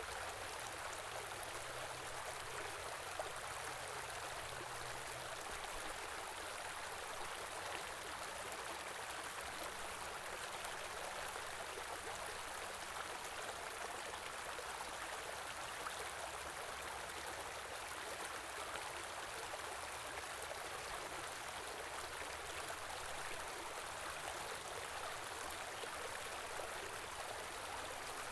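A stream running steadily: a continuous, even rush of flowing water.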